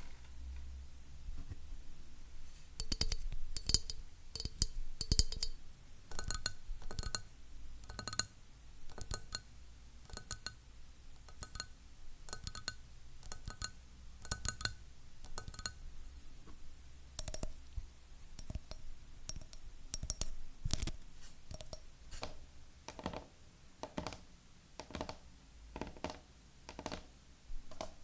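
Fingernails tapping in quick clusters on hard objects. Through the first half the taps ring briefly with a clear tone, like tapping on glass; in the second half they are duller knocks.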